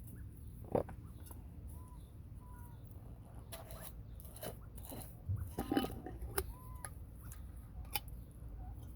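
Seed being scattered for bobwhite quail and pecked at: irregular crunchy clicks and taps, busiest about halfway through, with a few short soft peeps.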